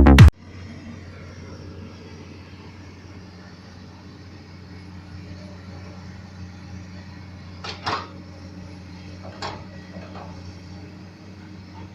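Komatsu PC200 hydraulic excavator's diesel engine running with a steady low hum, with a few brief sharp noises from the working machine about two-thirds of the way through and again near the end. Electronic music cuts off at the very start.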